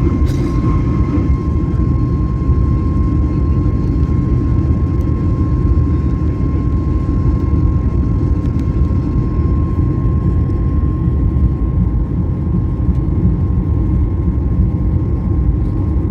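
Loud, steady low rumble of machinery or a vehicle, with a faint steady high tone running through it.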